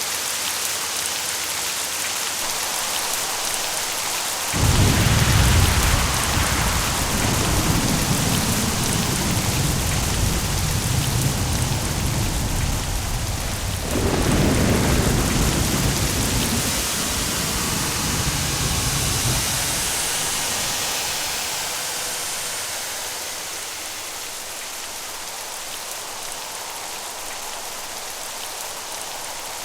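Steady heavy rain with two claps of thunder, one about four and a half seconds in and another about fourteen seconds in, their deep rumble rolling on and dying away about twenty seconds in.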